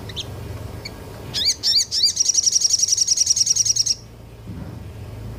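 Small songbird singing: a few sharp swooping chirps, then a fast, even, high-pitched trill of about two seconds that cuts off suddenly. This is the rapid 'nembak' (shooting) trill prized in masteran recordings.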